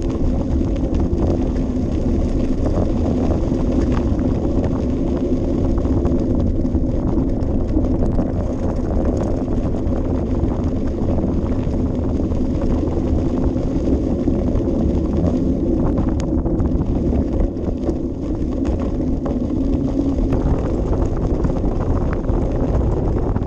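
Steady low noise of a bicycle ride picked up by a bike-mounted action camera: wind buffeting the microphone and tyres rolling along a path, with a few light clicks and rattles.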